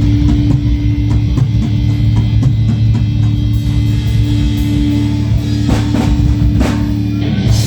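A rock band playing live: electric guitars and bass hold low, steady notes over a drum kit, with a loud crash about seven and a half seconds in.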